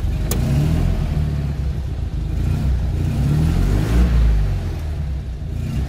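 Polski Fiat 126p's air-cooled two-cylinder engine idling through a newly fitted exhaust, heard from inside the cabin as a steady low rumble. It swells briefly about four seconds in.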